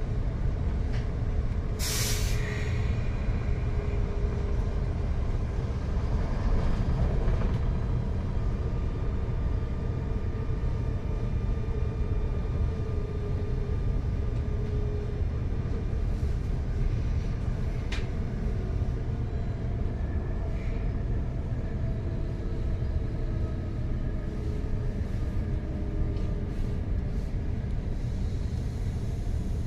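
Steady low rumble of a passenger train running at speed, heard inside the carriage. A short, sharp noise cuts through about two seconds in, and a single click comes later.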